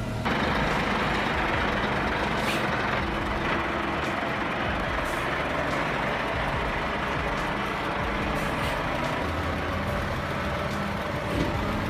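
Heavy truck running, a steady rushing mix of engine and road noise with a few faint clicks.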